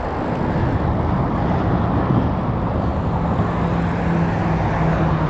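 Wind rushing over an action camera's microphone on a moving road bike, with a steady low engine hum joining about three seconds in.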